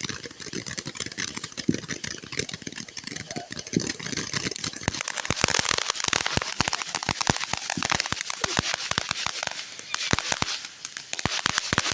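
A crackling ground firework (a 'Glitter Bomb') going off as a dense run of sharp pops and crackles over a hiss. The crackle thickens about five seconds in and thins out briefly near the end.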